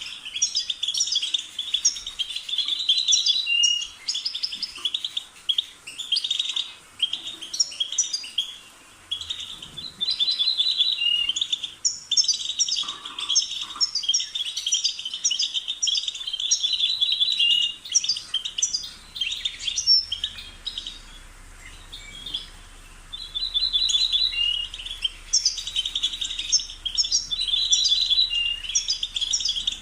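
European goldfinch singing in long runs of rapid twittering and trills, with brief breaks and a longer lull about twenty seconds in.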